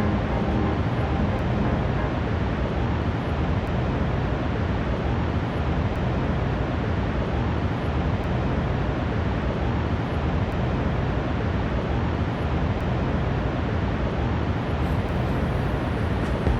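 Steady outdoor rumble and rush of noise, strongest in the low end, with no distinct events.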